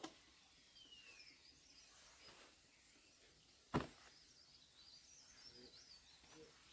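Quiet outdoor ambience with faint, high bird calls, including a short falling whistle about a second in. A single sharp click or knock just under four seconds in is the loudest sound.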